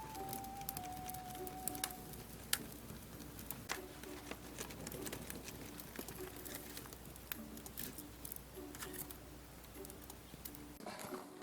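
Wood fire crackling, with irregular sharp snaps and pops over a low hiss. A short background melody fades out about two seconds in.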